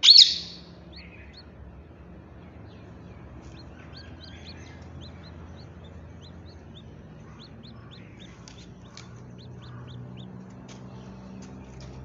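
Birds chirping: a loud shrill call right at the start, then many short high chirps scattered through the rest.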